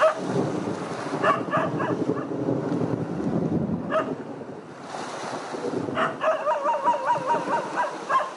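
A low roll of thunder that starts suddenly and rumbles for about five seconds before fading. Then a dog yaps in quick, high, repeated yelps.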